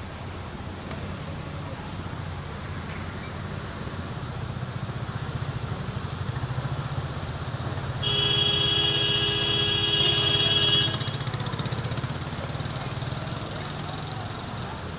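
A motor vehicle engine running steadily, with a horn sounding one loud, steady blast of about three seconds just past the middle.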